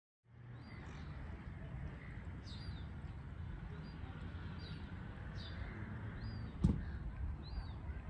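Short, high bird calls repeating about once a second over a steady low rumble of wind on the microphone, with a single sharp knock about two-thirds of the way through.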